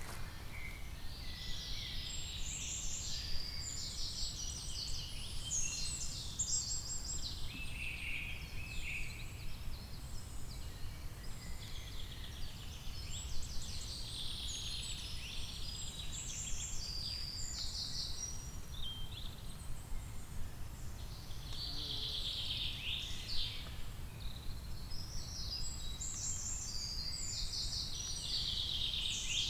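Songbirds singing in a forest, with many overlapping chirps and trills heard almost all the way through, over a steady low background rumble.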